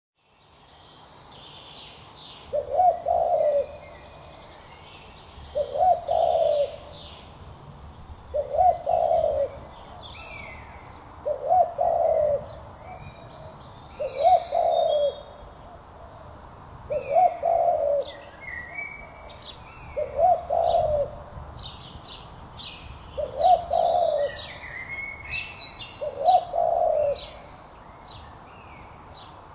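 A bird's low cooing call, a short phrase of several notes repeated nine times about every three seconds, with smaller birds chirping high and quick throughout.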